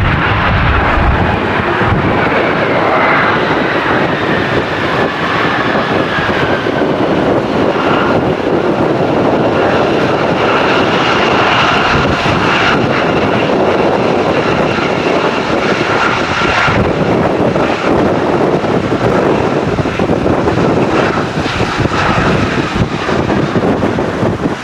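Jet airliner passing close, its loud engine roar carrying a whine that slides down in pitch over the first several seconds, then holds steady before easing off.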